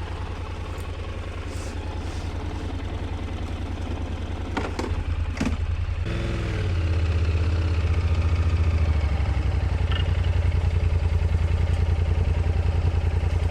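Honda NC750X parallel-twin motorcycle engine idling with a steady low pulse, with two sharp clicks near the middle. Just past halfway it picks up revs as the bike moves off, and it runs louder and steady.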